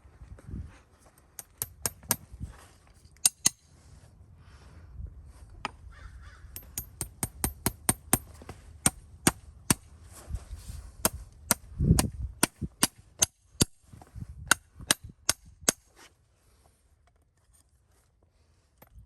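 Farrier's tools working on a horse's hoof: a run of sharp taps and clicks, closer together in the middle at about two a second, with one duller thud partway through. The taps stop a few seconds before the end.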